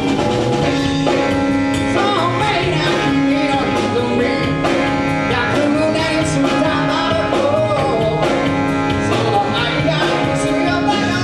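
Live band playing an upbeat number: drums and guitar under sustained held notes, with a wavering sung or lead melody over the top.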